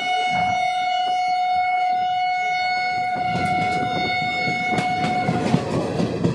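Train horn sounding one long, steady blast of about five seconds, cutting off near the end, over the rumble of the moving train.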